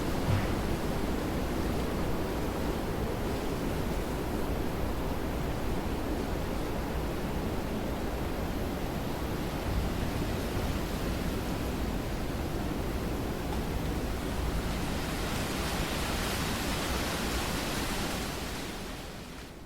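Steady rain, a continuous hiss with a low rumble underneath, fading out over the last couple of seconds.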